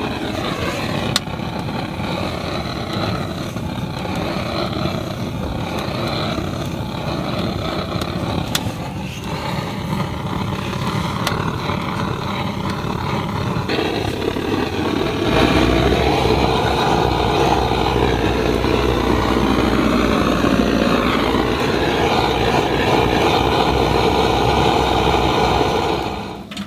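Handheld butane gas torch burning with a steady jet-flame hiss. It gets louder about halfway through and shuts off near the end.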